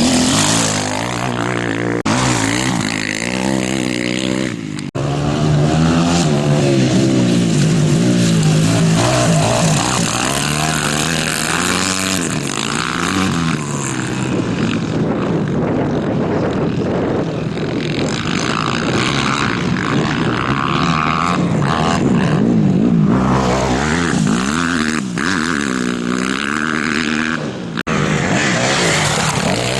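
Motorcycle engines revving up and down and passing by, several bikes one after another, with the pitch rising and falling repeatedly. The sound breaks off abruptly a few times where shots are cut together.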